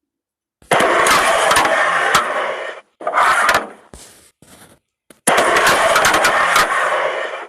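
Carrom striker and coins sliding across the board with a hissing rush, with several sharp clicks as the pieces strike each other and the board's edges. It comes in two runs of about two seconds each, with a shorter one between.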